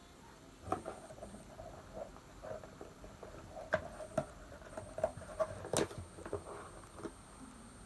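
Scattered light clicks and taps, a dozen or so at irregular intervals, as small objects are handled.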